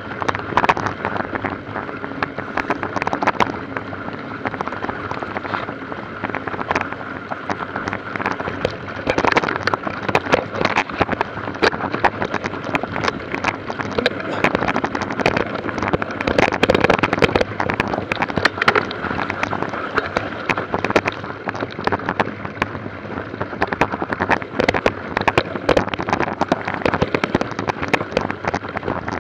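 Mountain bike ridden over a rough trail: a steady, dense crackling rattle with a rushing hiss.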